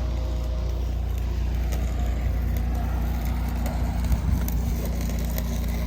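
Cat 259D compact track loader's diesel engine running steadily. A single light knock about four seconds in.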